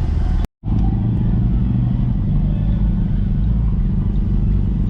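A car engine running at low revs as it rolls by, a steady deep exhaust note. The sound cuts out completely for a split second about half a second in.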